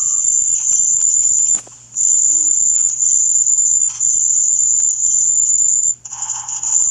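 A loud, steady, shrill high-pitched tone, like a cricket's trill, that breaks off briefly about a second and a half in and again near the end.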